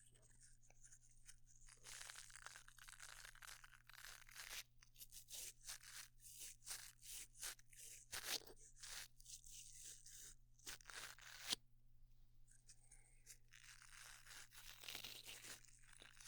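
Faint, quick scratchy strokes of an ASMR prop rubbed close to the microphone, standing in for a dentist's cleaning tool scraping plaque off teeth. The strokes come thick and fast through the middle and turn softer and hissier near the end.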